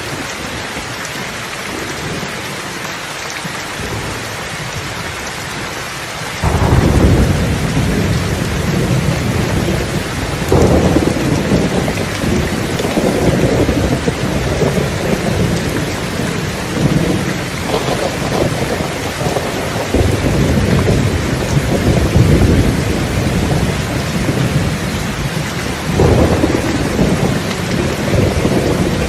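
Steady rain with thunder: a deep rumble breaks in suddenly about six seconds in and rolls on, swelling again several times.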